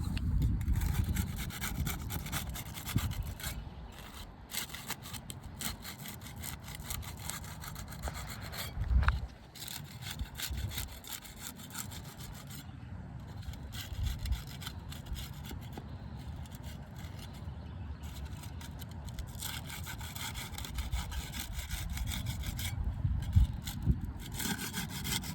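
Putty knife being worked under roof shingles, scraping and prying to break their seal strips, in irregular rasping strokes with a couple of louder knocks.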